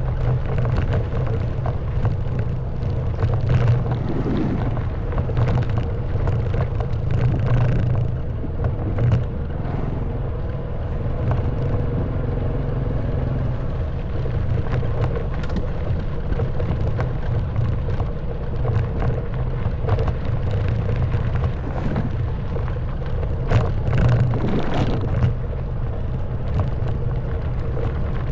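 Honda Wave 110cc single-cylinder four-stroke motorbike engine running steadily under way, with frequent short knocks and rattles from the bike jolting over a rough track.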